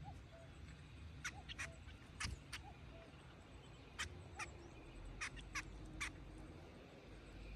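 Small birds giving faint, short, sharp chip calls, about ten scattered at irregular intervals.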